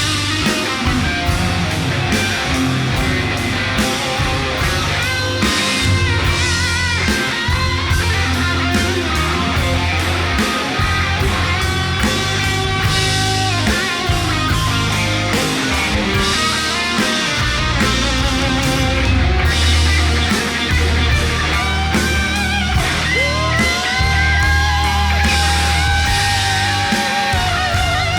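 Rock band playing an instrumental break: electric lead guitar over drums and bass. Near the end the guitar slides up into one long held note with vibrato.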